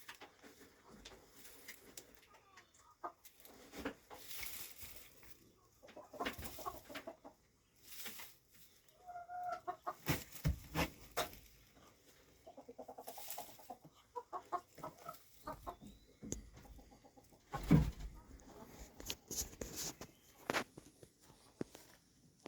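Hens clucking softly at intervals, with a run of quick clucks near the middle, among rustling and a few sharp knocks.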